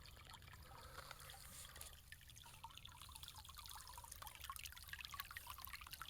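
Faint trickle of a small clear creek, water running steadily over rock.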